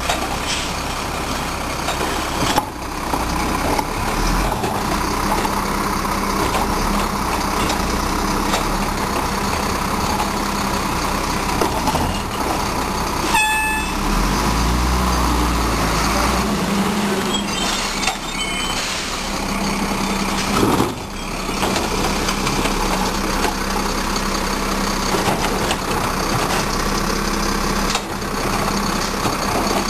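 Garbage truck running steadily at close range with a low engine drone. About 13 seconds in there is a brief, high, horn-like tone.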